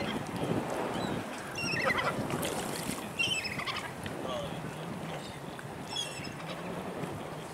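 Birds calling in short series of high chirping notes, several times, over wind and choppy water with a steady low hum underneath.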